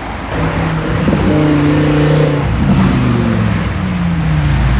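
A car engine revving: its note comes up about a second in, holds, then falls away over the last couple of seconds.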